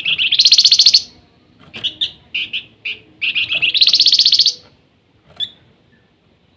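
Flamboyan (wergan jawa) songbird singing: two loud, fast high trills of about a second each, the second about three seconds in, with short sharp chips between them and a single chip near the end.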